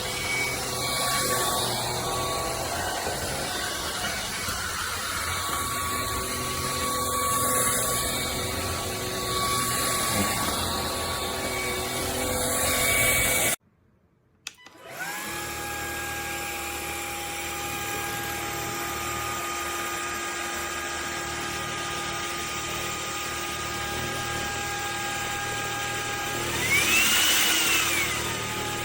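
Cordless stick vacuum's brushless motor running with a steady whine. It cuts out about halfway through and starts up again a second or so later. Near the end its pitch briefly rises and falls.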